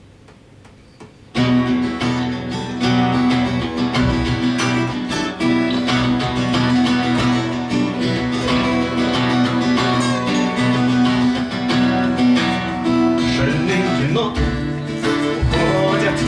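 Instrumental intro of a song played live, led by strummed acoustic guitar over sustained bass notes, starting abruptly about a second in.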